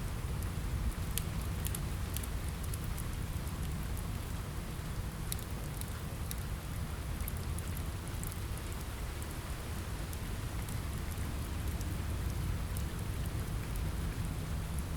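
Steady rain ambience with a deep low rumble underneath, and scattered sharp ticks and crackles from a fireplace, thicker in the first half.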